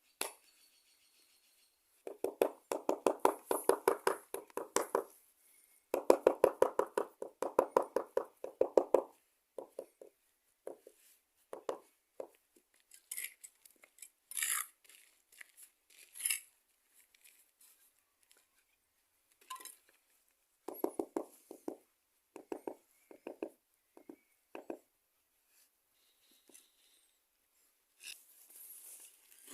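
Rapid scraping or rubbing strokes come in two bursts of about three seconds each. After that comes a run of scattered short taps and clinks, typical of hand work with a tool on a piece of cement.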